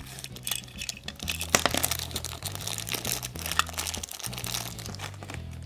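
Plastic toy packaging crinkling and crackling as it is handled and opened, in irregular rustles, over a soft background music bass line.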